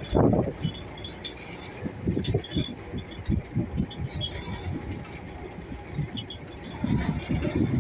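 A truck's engine running under way with a low, uneven rumble and light cab rattles, getting louder near the end.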